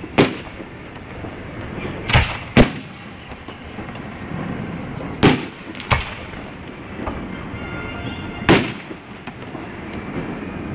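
Aerial fireworks shells bursting in a display finale: about six sharp booms at irregular intervals, two of them close together near the start and another pair around the middle.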